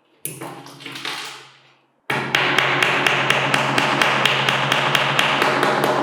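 A bench grinder running: a steady low hum and bright hiss with a regular ticking about five times a second. It starts suddenly about two seconds in, after a shorter burst that fades away.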